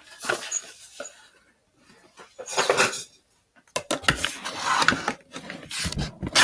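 Small plastic toy figurines and props being handled and moved around: irregular clicks, taps and scraping against hard surfaces, busier in the second half.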